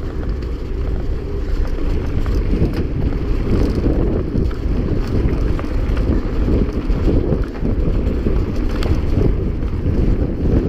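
Heavy wind buffeting on the camera microphone of a mountain bike moving at speed, a steady low rumble, with scattered light clicks and rattles from the bike over rough ground.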